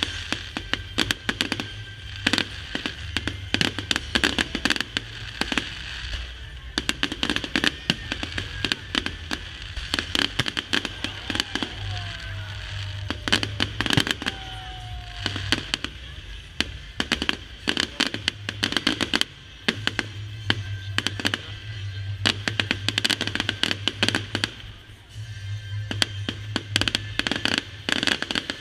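Fireworks display: a dense, continuous run of sharp bangs and crackles from bursting shells, with music playing underneath.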